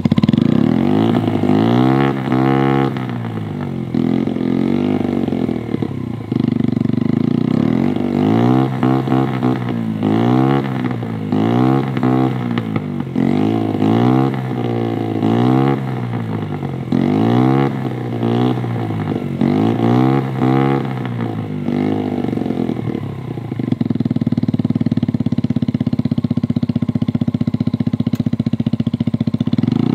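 Skyteam Dax 50cc four-stroke mini bike engine with a Capspeed GP1 exhaust, blipped again and again, about one rev every one and a half seconds, then held at a steady speed for the last six seconds. It is being revved to blow washing water out of the exhaust.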